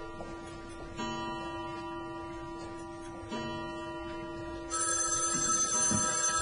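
Soft background music with plucked guitar-like strings, and then, near the end, a telephone starts ringing, louder than the music.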